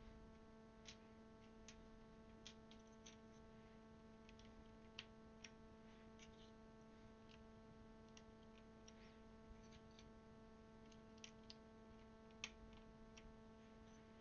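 Faint, irregular small plastic clicks of keycaps being handled and pressed onto a DasKeyboard mechanical keyboard's switches, one a little louder near the end, over a steady electrical hum.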